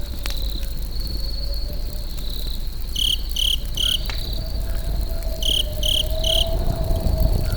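Crickets chirping: a steady high trill, with two loud runs of three sharp chirps around the middle. Beneath them is the steady low rumble of a campfire, with an occasional faint crackle.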